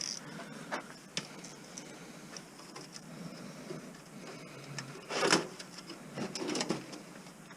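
Scattered light clicks and rattles of plastic and metal parts being handled as a VCR is taken apart, with one louder, short scraping noise about five seconds in.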